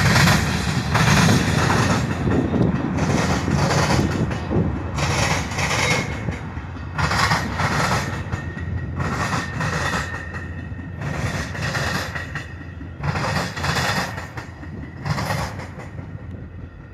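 Metra commuter train passing: a diesel locomotive, loudest in the first couple of seconds, then bilevel passenger cars. The wheels clatter over the junction's rail crossing in bursts about every two seconds over a steady rumble, which fades near the end.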